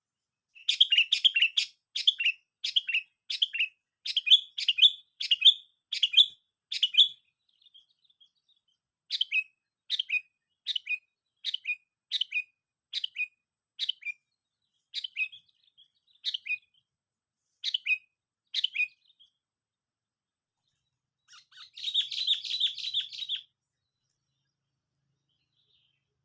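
Sooty-headed bulbul (kutilang) calling: a long series of short, sharp chirps. They come quickly at first, then about one a second. A brief rapid chattering run comes near the end.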